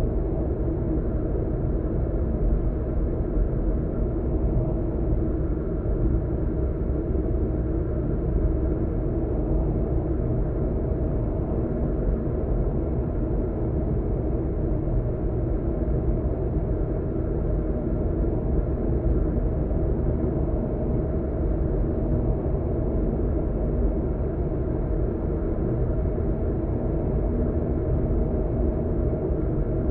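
Car's interior while driving: a steady low rumble of road and tyre noise with engine drone.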